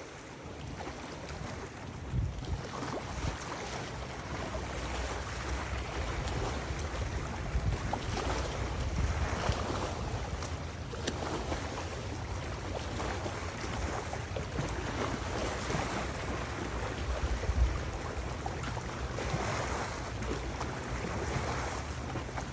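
Wind buffeting the microphone in gusts, a low rumble that swells and eases, over a steady rush of water.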